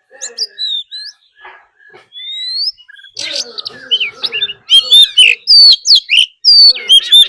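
Oriental magpie-robin singing a varied song of clear whistles and slurred notes, sparse at first and then fast and dense from about three seconds in. This is the aggressive fighting song used as a lure to provoke other magpie-robins.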